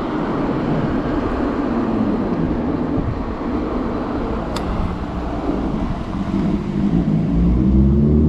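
Steady rush of wind and street traffic noise, heard from a moving e-bike. About seven seconds in, a nearby motor vehicle's engine starts accelerating, its pitch rising and getting louder.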